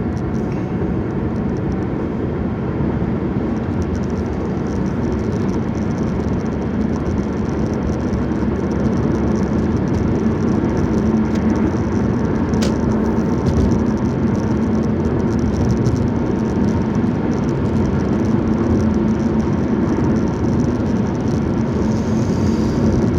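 Steady road and engine noise inside a moving car's cabin with the windows shut, a low hum under the tyre noise growing slightly louder as it goes. A single brief click about halfway through.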